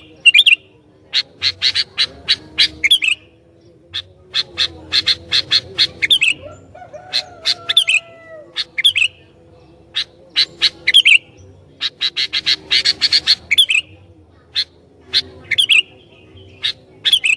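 Sooty-headed bulbul (kutilang) calling energetically in rapid runs of short, sharp, high notes, each run ending in a slurred note. The runs come every couple of seconds.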